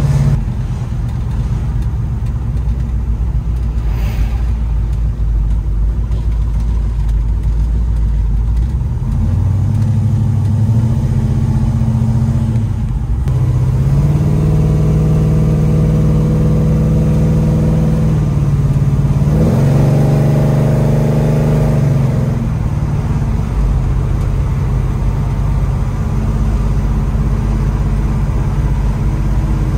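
Chevelle SS 396's big-block V8 running under way. Its pitch climbs about ten seconds in and holds higher for a few seconds, then dips and climbs again around twenty seconds before settling back to a lower, steady note.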